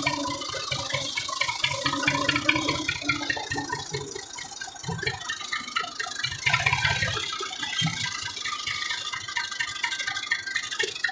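Massey Ferguson 240 tractor's three-cylinder diesel engine running with a steady low pulse, under a busy clatter of short, scattered higher sounds.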